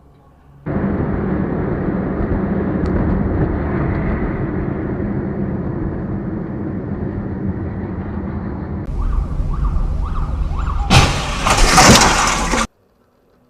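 Dash-cam traffic noise: a steady road and engine rumble, then a different clip with faint rising and falling wails in the vehicle noise. It ends in a loud, harsh burst of noise that cuts off suddenly.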